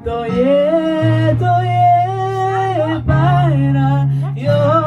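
Worship song being sung: a voice holding long notes that slide between pitches, over sustained low chords that change a few times.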